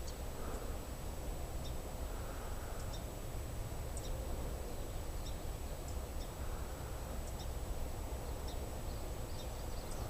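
Outdoor ambience: a steady low rumble, like wind on the microphone, with brief faint high bird chirps scattered throughout.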